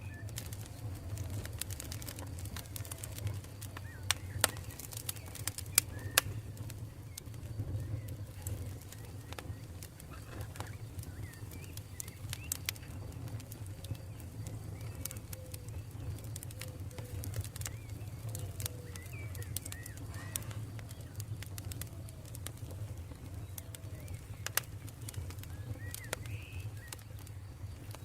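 Campfire burning with a low steady rumble and sharp crackles and pops scattered throughout, the loudest pops around four to six seconds in. Faint bird calls in the background.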